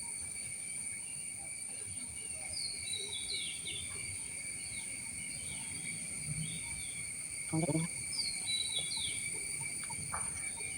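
Steady high-pitched insect drone, like crickets or cicadas, with a bird giving short falling chirps in clusters several times. A brief low sound, a voice or a creak, comes about two thirds of the way through.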